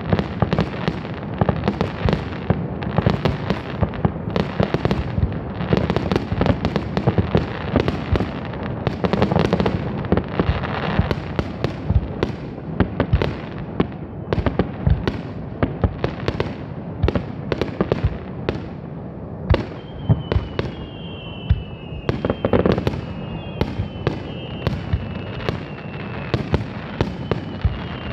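Aerial fireworks launching and bursting at close range in a dense, continuous barrage of bangs. From about two-thirds of the way in, several high whistles slowly fall in pitch over the bursts.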